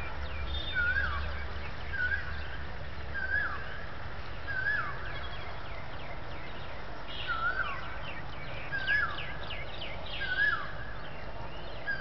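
A bird calling over and over, a short hooked note repeated about eight times, every one to two seconds. Fainter, higher chirps of other birds come in behind it, mostly in the second half.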